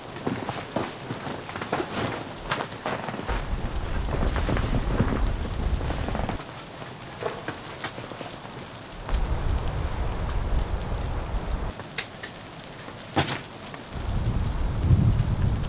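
Snowstorm: gusts of wind rumble in three long stretches, with scattered ticks and patters of driven snow throughout.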